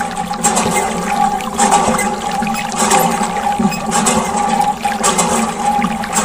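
Water splashing and trickling in a small DIY model washing machine and pump, surging about once a second over a steady hum.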